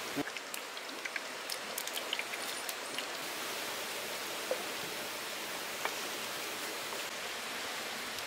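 Steady rain hiss, with a scatter of small sharp ticks in the first three seconds.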